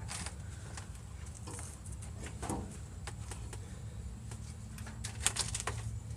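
Faint scraping and clicking of a silicone-greased rubber exhaust hanger being worked onto its hanger rod, with a short run of sharper metallic clicks about five seconds in, over a steady low hum.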